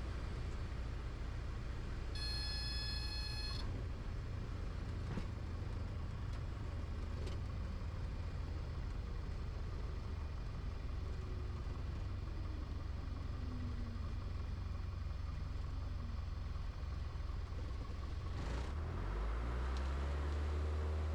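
Piper Tomahawk's Lycoming O-235 engine droning, heard inside the cockpit. About two seconds in, a high beeping tone sounds for about a second and a half. Near the end the engine note rises and gets louder as power comes up.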